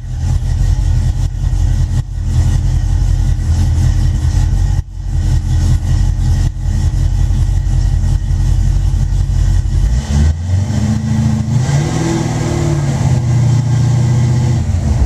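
Car engine running just after a cold start, steady at first, then revved about ten seconds in and held at a faster speed to the end.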